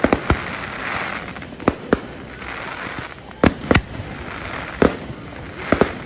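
Aerial fireworks going off: about nine sharp bangs of bursting shells, several in quick pairs, with a crackling hiss between the bursts.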